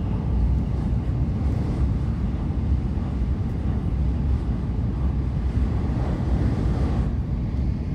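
Steady low rumble of an N700S Shinkansen bullet train running at speed, heard from inside the passenger cabin.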